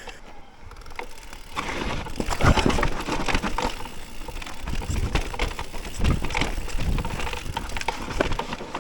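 Electric mountain bike clattering down a rough, rooty trail: many quick knocks and rattles from the bike and tyres hitting roots and ground, over a low rumble.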